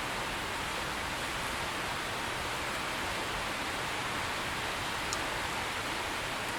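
Heavy rain falling steadily, an even hiss, with one small sharp tick about five seconds in.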